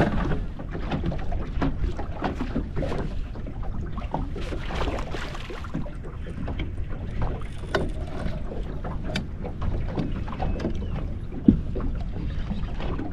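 Water slapping against a small fishing boat's hull over a steady low rumble, with scattered small knocks; a sharp knock at the start and another about 11 seconds in.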